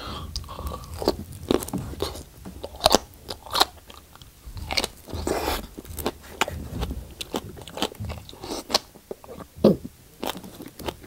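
Close-up crunching and chewing of raw aloe vera leaf, the wet crisp leaf giving irregular sharp crunches.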